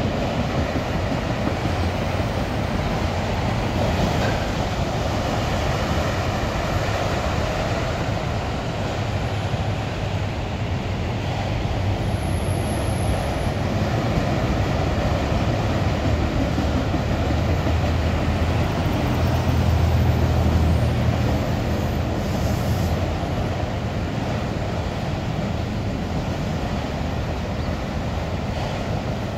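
Freight train of autorack cars rolling past, a steady loud rumble and rattle of steel wheels on the rails. The low rumble swells briefly about two-thirds of the way through.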